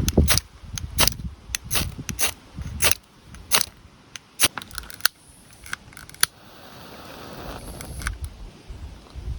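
A series of irregular sharp clicks and clacks, about one every half second to a second, with a low rumble under the first few and a soft rushing hiss in the last few seconds.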